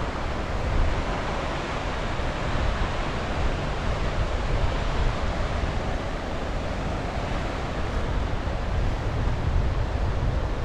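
Sea waves washing on the shore, a steady rush with no single breaker standing out, while wind buffets the microphone with a low rumble.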